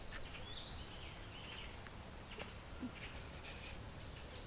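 Quiet outdoor background with faint bird calls: several short, high, arched chirps spread through.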